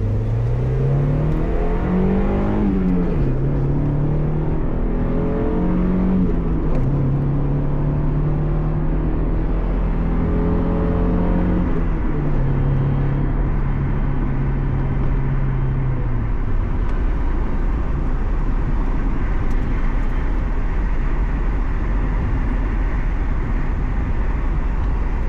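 1993 Mazda Miata's 1.6-litre four-cylinder engine pulling the car up through the gears. Its note climbs, drops in steps at each of three upshifts, then fades about two-thirds of the way through, leaving a steady rumble of road and tyre noise as the car cruises.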